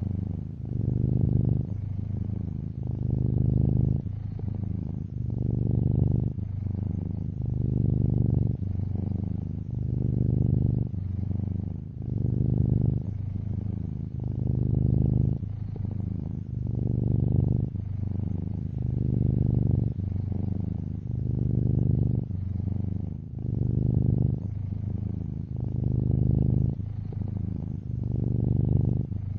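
Close-up domestic cat purring steadily, the low rumble swelling and easing with each breath about every second and a half.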